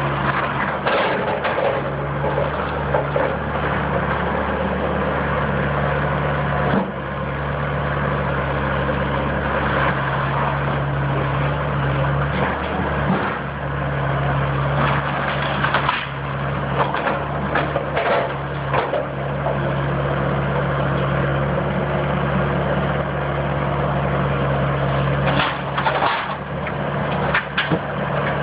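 A heavy diesel demolition machine's engine runs steadily while a house's wood framing cracks and crunches as it is broken apart, with a cluster of sharp cracks near the end.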